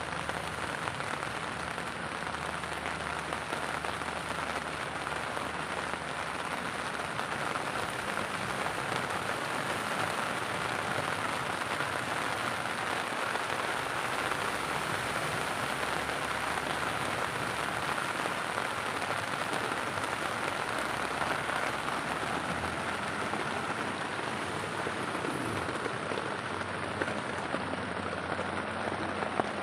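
Rain falling steadily, a dense, even patter of drops that does not let up.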